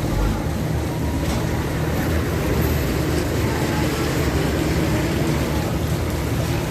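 Heavy rain falling steadily over a constant low rumble.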